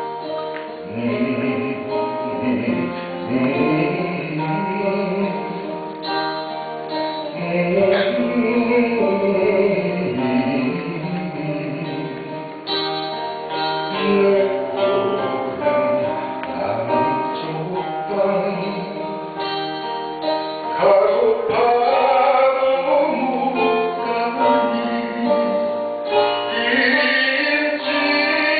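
Acoustic band performance: strummed acoustic guitar accompanying voices singing a slow melody.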